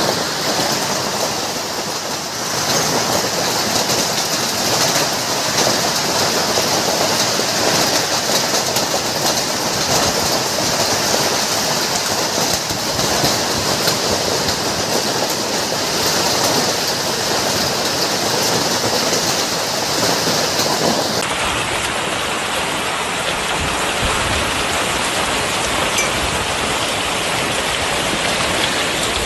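Hail and heavy rain pelting down in a dense, steady hiss of countless small impacts. The sound turns a little duller about two-thirds of the way through.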